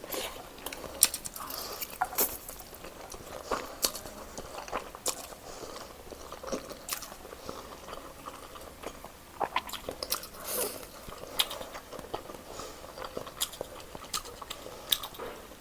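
Close-miked eating: a person chewing and biting black bean noodles and chicken cheese sausage, with irregular wet mouth clicks and smacks.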